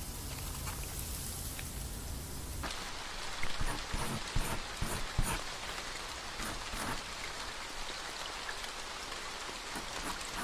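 Rain falling as a steady patter of drops. About two and a half seconds in, the sound switches abruptly to a different, denser patter, with a few low thuds soon after.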